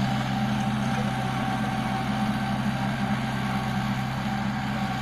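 Kubota L4400 tractor's four-cylinder diesel engine running steadily at a constant speed.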